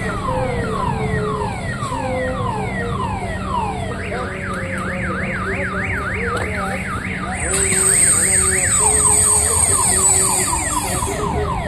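Car alarm siren cycling through its tones: repeated falling whoops, two or three a second, then a fast up-and-down warble, then falling whoops again. A high hiss joins about two-thirds of the way in and stops just before the end, over a steady low rumble.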